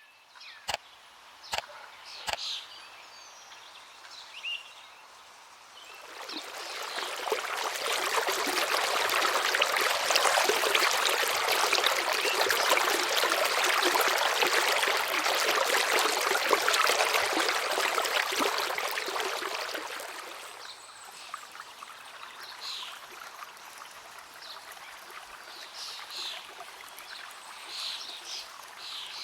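Rushing river water, a loud even hiss that swells in about six seconds in and fades out again around twenty seconds, after a few sharp clicks near the start. Birds chirp over the quieter water near the end.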